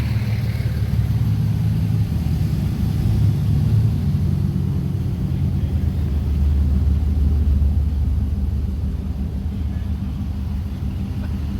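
Motor vehicle engine running with a low rumble, its pitch shifting a few times as it is driven.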